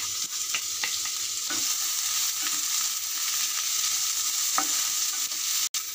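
Chopped onion sizzling in hot mustard oil in a frying pan as it is stirred with a wooden spatula, which scrapes and taps against the pan. The sound briefly cuts out near the end.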